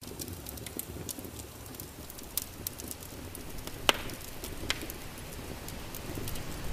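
Wood fire in a fireplace crackling, with irregular sharp pops over a low steady rumble; the loudest pop comes about four seconds in.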